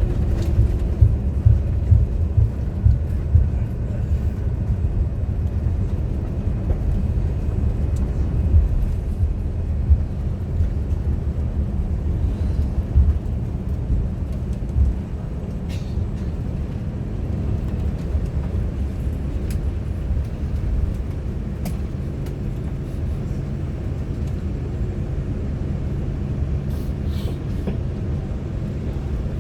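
Low, steady rumble of a Boeing 787-9 airliner rolling along the runway after landing, with irregular jolts through the first half that settle into an even rumble as it slows.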